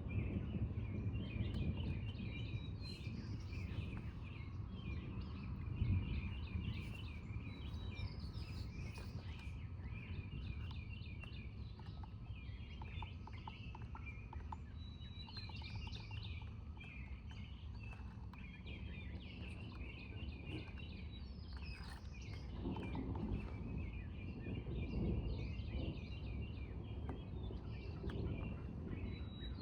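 Several birds chirping and singing in short repeated phrases over a low background rumble, which swells about two-thirds of the way through.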